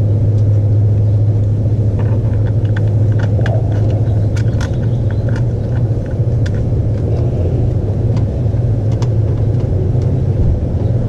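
A steady, loud low rumble, with scattered small clicks and taps through the middle as the clutch line and its fittings are handled and routed.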